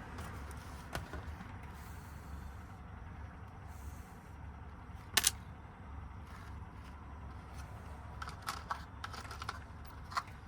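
Small clicks and taps of lock wafers and a key being handled and tried in a Ford lock cylinder during rekeying: a sharp click about five seconds in and a cluster of light clicks near the end, over a steady low hum.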